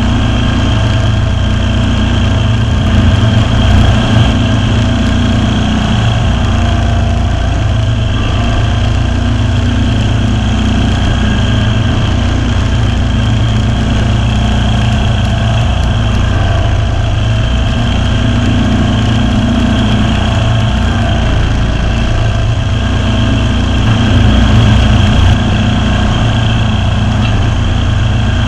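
Kawasaki V-twin engine of a Ferris zero-turn lawn mower running steadily, with brief louder moments about three seconds in and again near the end.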